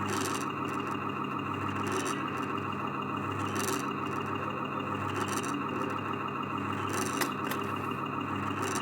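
A Falgas fire-truck kiddie ride mid-ride, its speaker playing a steady truck-engine sound effect, with a short hiss repeating about every one and a half seconds.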